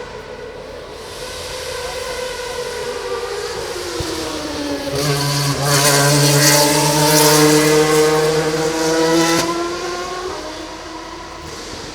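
Formula One car's V8 engine at speed going past: its high-pitched note climbs and grows loud as it approaches, then drops in pitch and fades away near the end.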